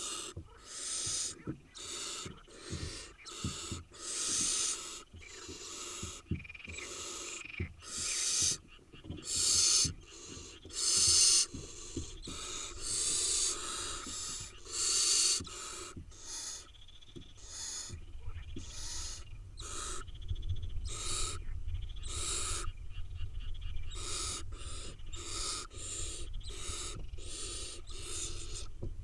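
Barn owl nestlings giving their hissing begging calls: many short, rasping calls overlapping one after another, loudest in the first half. From about two-thirds of the way in, a low rumble sits under the calls.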